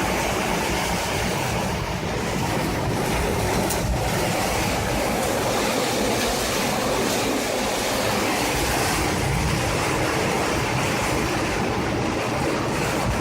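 Tornado winds blowing hard: a steady, loud rush of noise with a fluttering low rumble.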